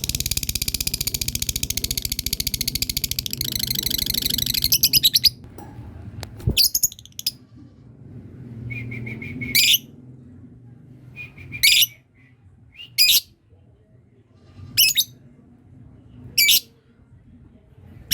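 Lovebird giving a long 'ngekek' trill: a rapid, high-pitched chatter lasting about five seconds that grows louder toward its end, then breaks off. Single short, sharp chirps follow every second or two.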